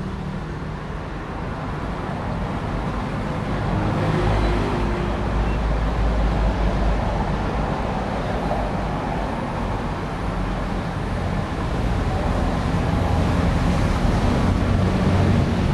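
Radio-controlled model bulldozer at work grading, a steady mechanical noise that swells about four seconds in and again near the end.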